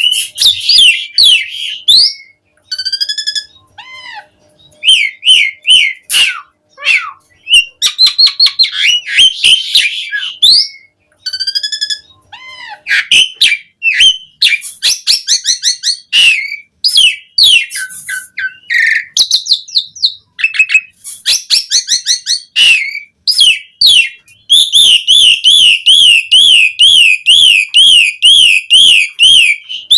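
Asian pied starling (jalak suren) singing a loud, varied song of whistles, gliding notes and short clicks. From about four-fifths of the way in, it runs into a long series of quickly repeated warbling notes.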